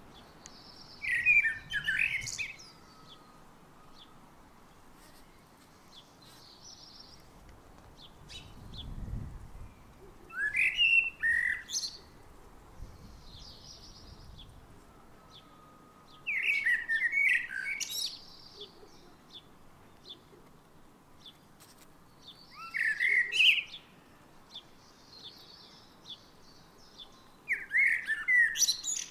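A songbird singing in short warbled phrases about every five or six seconds, each followed by high squeaky notes, with a fainter, higher bird song in the gaps between.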